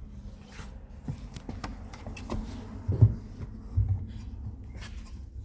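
Rubbing and rustling with scattered light clicks and two dull low thumps, about three seconds in and a little under a second later.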